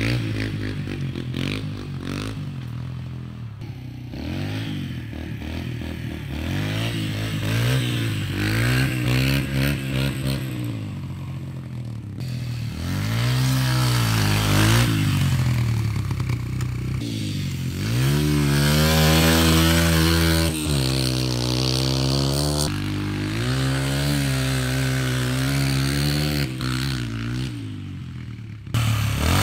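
Pit bike engine revving up and down over and over, its pitch rising and falling with each blip of the throttle; it runs louder and higher in the second half.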